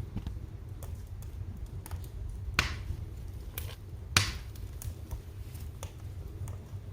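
Wood fire crackling, with scattered small clicks over a low steady rumble and two louder pops about two and a half and four seconds in.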